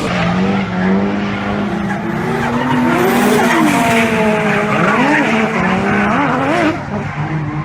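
Nissan Skyline R32's twin-turbo RB26DETT straight-six held at steady revs while the tyres squeal in wavering tones, the squeal cutting off suddenly near the end.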